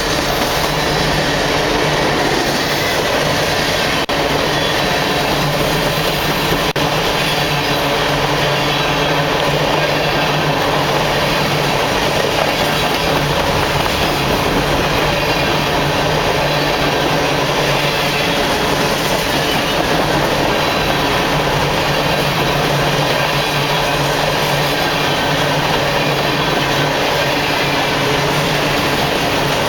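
Freight train of grain hopper cars rolling past close by: a loud, steady rumble of steel wheels on the rail, with clicking over the rail joints.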